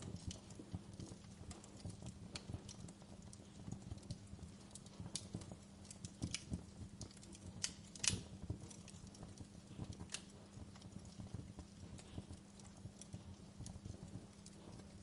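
Wood fire in a fireplace crackling: irregular small pops and snaps, with one louder snap about eight seconds in. Under them run a low rumble and a faint steady hum.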